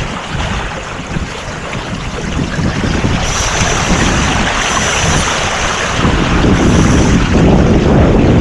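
Wind buffeting the microphone on a sailboat under way, over the rush of water along the hull. A thin high whistle comes and goes in the middle.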